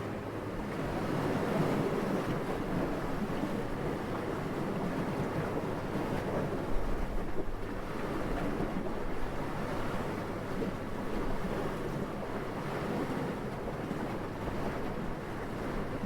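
Gentle wind blowing steadily, rising and falling in slow soft swells, with a brief stronger gust about seven seconds in.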